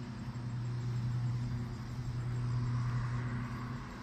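An engine running steadily, a low hum holding an even pitch.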